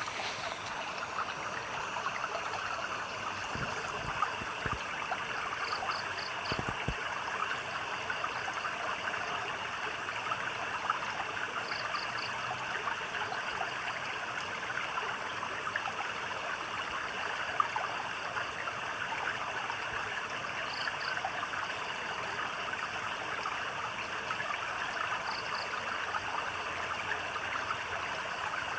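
Small stream trickling and babbling steadily over stones. A few short high chirps, each a quick run of three or four pulses, come every several seconds.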